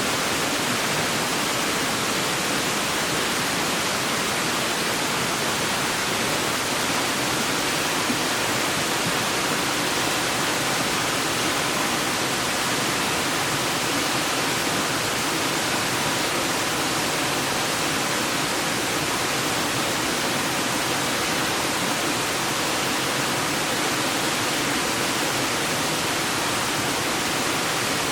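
Clear river water running steadily, an even rushing hiss with no breaks.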